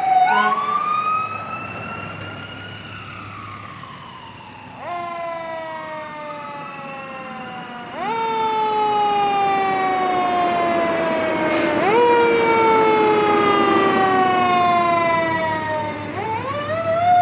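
Fire apparatus sirens wailing on an emergency response. A siren winds up and slowly falls away in the first few seconds; then, from about five seconds in, a siren repeatedly glides down in pitch and jumps back up about every four seconds, getting louder about eight seconds in.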